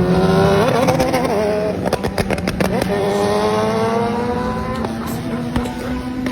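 Motorcycle engine accelerating hard through the gears. Its pitch climbs, breaks off with a few clicks around two to three seconds in as it shifts, then climbs again. A steady low engine note runs underneath.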